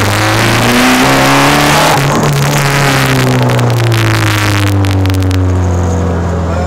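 Škoda Octavia rally car's engine heard from inside the cabin: the revs climb for about two seconds, then fall steadily as the car slows to a crawl.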